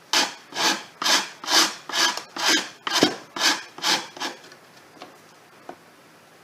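Wood being rasped by hand, shaping a small block to fit a caster cup: about nine strokes, roughly two a second, that stop about four seconds in.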